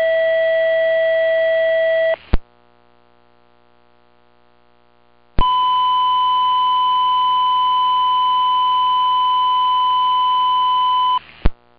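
Fire department dispatch alert tones over a scanner radio. A steady lower tone lasts about two seconds and ends with a squelch click. After a few seconds' break, the radio keys up again with a click and sends a steady higher tone for about six seconds, ending in another squelch click.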